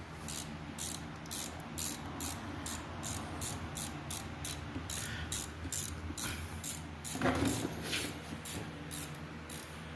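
Ratchet wrench clicking steadily, about three clicks a second, as hex (Allen) bolts are wound out on a dirt bike's top end. A single louder knock comes about seven seconds in.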